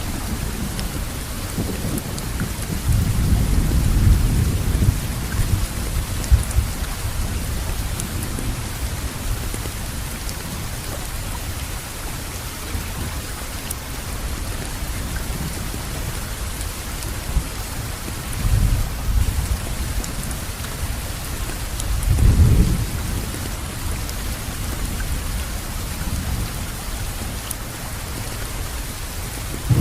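Steady rain falling, with low rolls of thunder swelling several times: the strongest a few seconds in and again about three quarters through.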